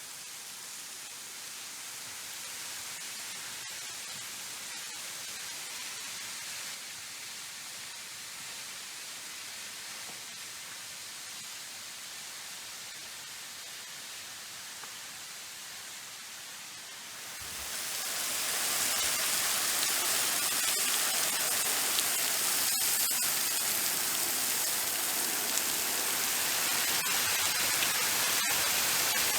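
Steady rush of a tall, low-volume waterfall splashing into a pool, echoing off the surrounding rock walls. About two-thirds of the way through it becomes clearly louder and more hissing.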